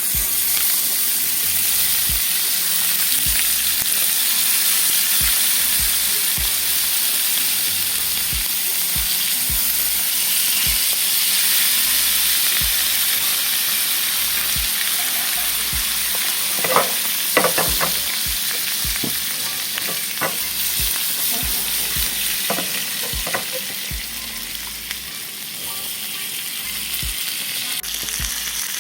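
Chicken frying in oil in a grill pan as it is glazed with honey glaze, sizzling steadily. A few sharp clicks come through about two-thirds of the way in.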